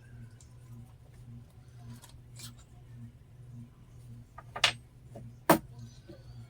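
Small hard parts or tools clicking as they are handled on a workbench, with two sharp clicks a little under a second apart near the end, the second the loudest. A steady low hum with a faint pulse about twice a second runs underneath.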